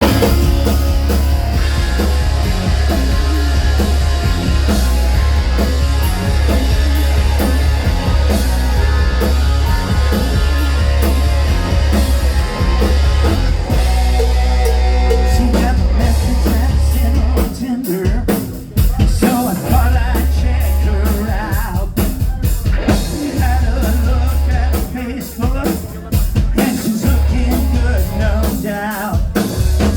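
Live rock and roll band playing loud, with heavy bass, drums and singing; a little past halfway the playing breaks into short separate hits before the full sound returns.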